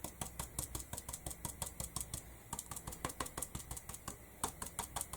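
Stippling brush dabbed rapidly onto canvas, about seven or eight light taps a second, with two short pauses, pouncing acrylic paint through a mask.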